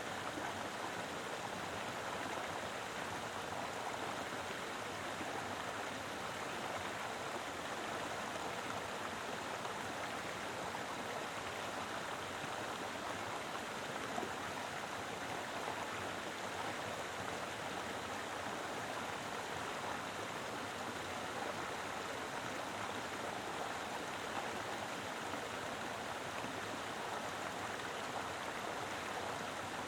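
Mountain river flowing steadily over rocks: a continuous, even rush of water.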